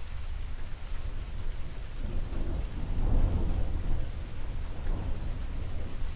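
Steady rain with a low rumble of thunder that swells and fades about two to four seconds in.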